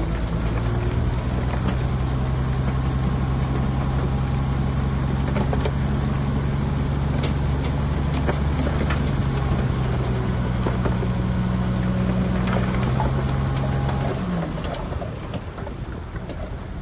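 Heavy diesel earthmoving machine's engine running steadily, with scattered knocks. About fourteen seconds in, the engine note falls slightly and the sound drops quieter.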